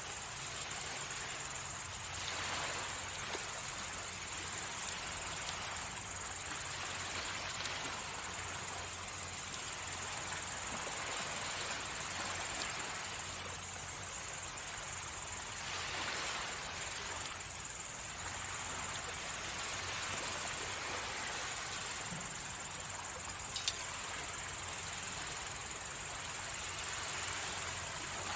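Sea waves washing onto the shore, the rush swelling and easing every few seconds, over a steady high chirring of insects. A few faint sharp clicks stand out.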